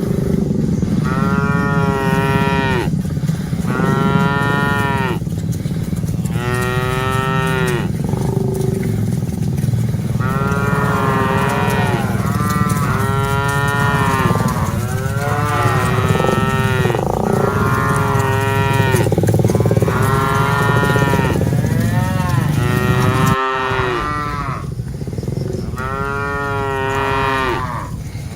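A herd of cattle mooing, one long call after another and often several at once, over a steady low rumble.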